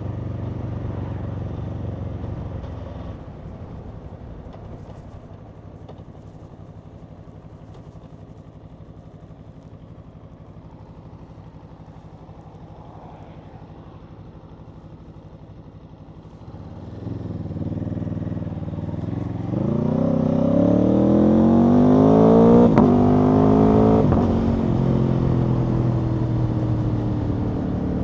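Aprilia Tuono V4's 65-degree V4 engine: it runs steadily, drops back to a quieter low running after about three seconds, then from about two-thirds of the way in it opens up and accelerates hard, the pitch rising in steps through the gears with a sharp crack near the loudest point, before easing into a steadier cruise.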